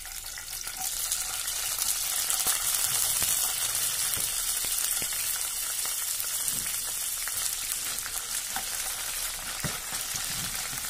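Cut green beans and carrot sticks sizzling in hot oil in a frying pan on a high flame, the sizzle growing louder within the first couple of seconds. A few short scrapes and knocks of a spatula stirring the vegetables come near the end.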